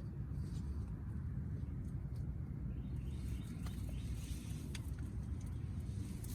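Outdoor ambience: a steady low rumble with a few faint short ticks and chirps over it in the second half.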